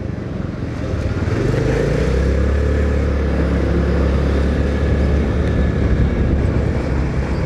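Motorcycle running at road speed on a highway, engine and road noise as a steady low rumble that grows louder about a second in.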